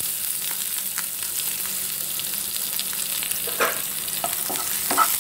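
Diced capsicum with ginger and garlic sizzling in hot oil in a non-stick frying pan, stirred with a wooden spatula: a steady hiss with a few light clicks and knocks from the spatula.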